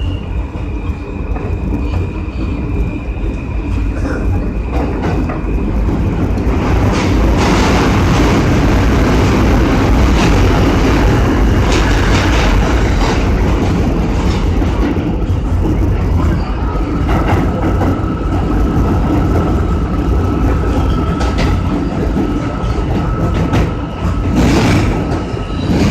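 R160 subway car running between stations, heard from inside: a steady heavy rumble of wheels on track with scattered rail-joint clicks. A steady high whine sounds at the start, and another, lower one comes in about two-thirds of the way through. The noise swells in the middle and there is a short loud burst near the end.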